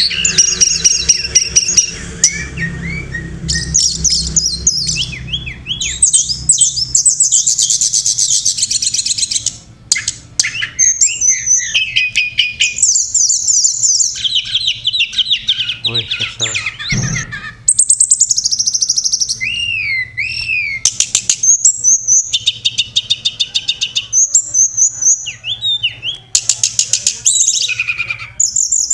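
Song of the tledekan gunung (sulingan gunung) bird: a long, varied run of high rapid chirps, trills and slurred whistled notes with brief pauses, played as a lure recording.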